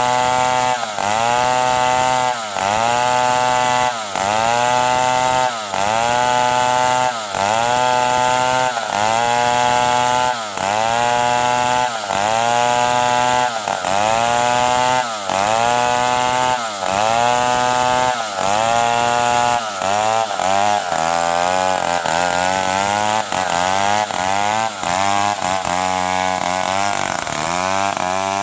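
Stihl 070 two-stroke chainsaw cutting wood, its engine pitch dropping under load and picking back up over and over, about every one and a half seconds. Past the two-thirds mark the dips come quicker and less evenly.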